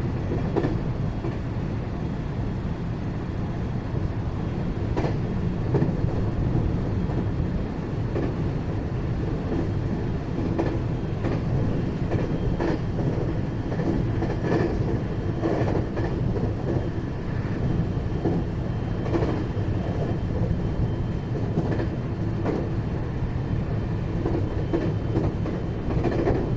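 Running sound inside the motor car of a 521 series electric multiple unit at speed: a steady rumble of wheels on rail, with a click from a rail joint every second or two and a faint steady whine above.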